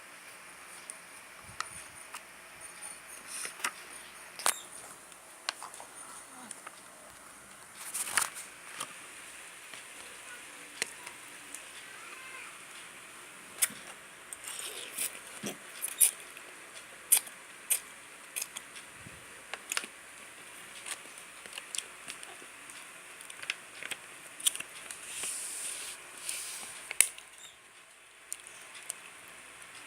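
Scattered light clicks and taps at irregular intervals, from a cup of instant noodles and a utensil being handled while eating, with a short scraping, rustling stretch near the end.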